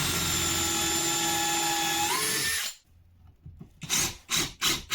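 Electric drill driving a self-tapping screw into a bed frame's crossbeam, a steady motor whine for about two and a half seconds that steps up in pitch shortly before it stops. The screw fastens the loose crossbeam that was rubbing against the bed rail and causing the bed's squeak. Near the end a run of short, evenly spaced sounds begins.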